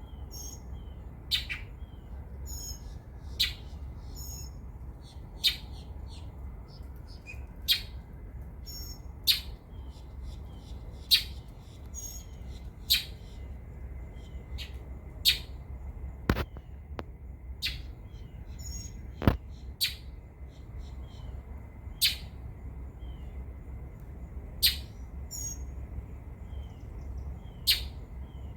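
Two songbirds, an adult and a young one, calling back and forth. A short, sharp call comes every two seconds or so, with fainter, higher chirps between, over a steady low rumble. The young bird's calls are less clear than the adult's.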